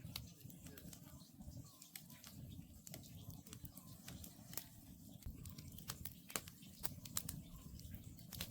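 Wood campfire crackling, with irregular sharp pops from the burning logs over a low, steady rumble of the fire.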